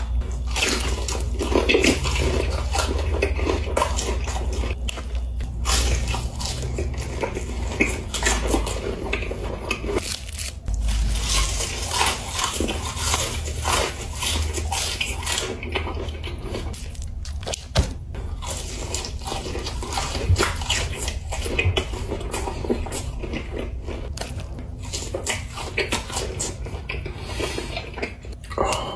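Close-miked eating sounds: irregular crunching, chewing and crackling of food, with no pause in them.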